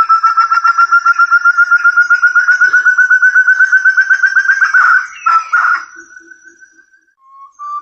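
Forest quail (burung terung) call used as a bird lure: a fast, loud run of clear whistled notes, about ten a second, edging up in pitch. The run breaks off about five seconds in, fades, and starts again just before the end.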